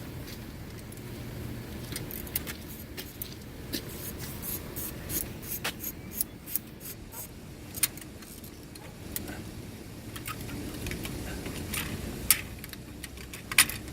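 Light metallic clicks and clinks, irregular and scattered, of hand tools and cable fittings being handled while the positive battery cable is removed. The two sharpest clicks come near the end.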